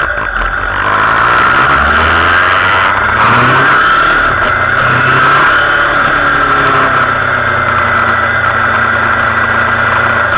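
Sport motorcycle engine heard from an onboard camera, accelerating hard through the gears: its pitch climbs and drops back several times in the first half, then runs steadier at speed under a constant rush of noise.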